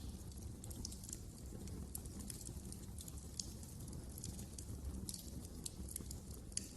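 Wood fire burning in a fireplace: irregular crackles and sharp pops over a steady low rumble of the flames, with a louder pop near the end.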